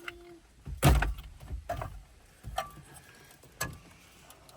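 Knocks and clunks of a car radio head unit being worked loose and pulled out of the dashboard, the loudest about a second in, then a few lighter clicks.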